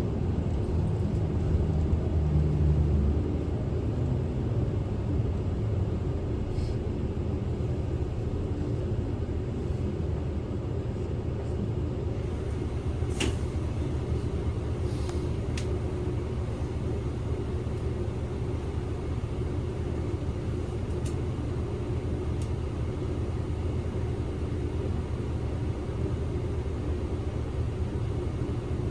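Interior of a Kyoto City bus on the move: a steady low rumble of engine and road noise, a little heavier for the first few seconds, with a few faint clicks and rattles.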